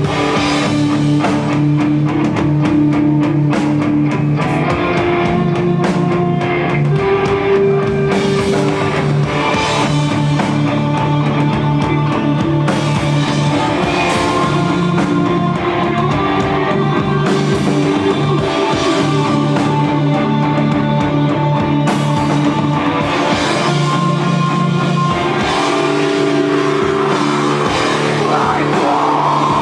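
Live rock band playing an instrumental passage: guitars holding long notes over a drum kit, with no singing.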